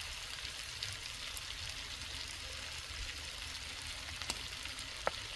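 Chicken, potatoes and tomato paste sizzling in hot oil in a cast-iron kazan over charcoal: a steady hiss with a few small pops.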